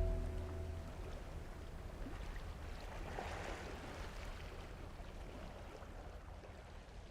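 Background music dies away in the first second, leaving faint rushing water and wind noise from a sailing boat that swells briefly and then slowly fades.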